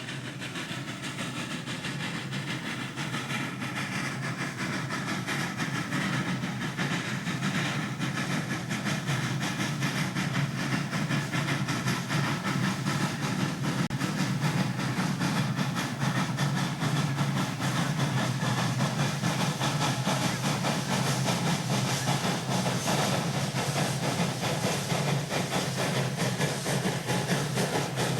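A narrow-gauge steam locomotive hauls an oil train, its working and hiss growing louder over the first several seconds and then holding steady.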